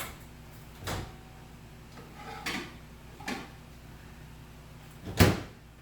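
A handful of separate knocks and clunks from kitchen items being handled and set down, a couple with a slight ring like crockery. The loudest clunk comes about five seconds in.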